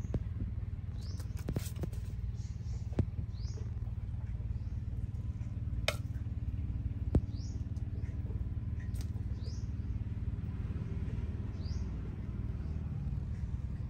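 A small bird's short, rising chirps repeat every second or two over a steady low rumble, with a few sharp clicks.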